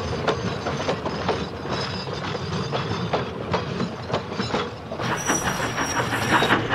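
Railway trucks being shunted by a steam engine: wheels rolling with many clicks and clanks of buffers and couplings. Louder steam hiss joins about five seconds in.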